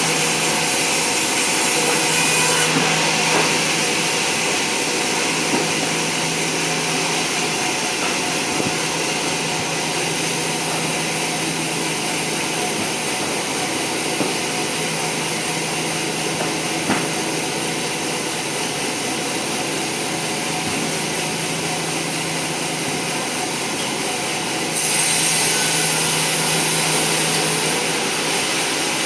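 A power saw running steadily as it cuts lengthwise through a teak log, with a steady motor hum. A brighter hiss is added for the first couple of seconds and again near the end.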